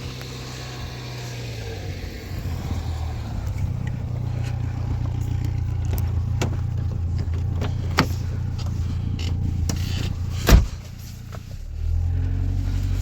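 A motor vehicle's engine running steadily, with scattered knocks and rattles. A loud thump comes about ten and a half seconds in, after which the engine sound dips for about a second before picking up again.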